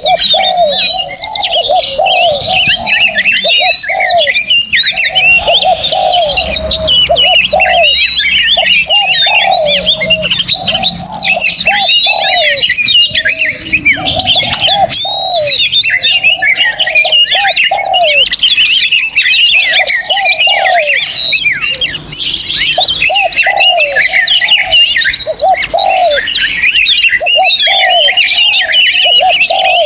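A chorus of many songbirds singing at once, a dense run of high chirps and whistles with no pause. Under it runs a low cooing phrase, repeated about once a second, typical of a dove.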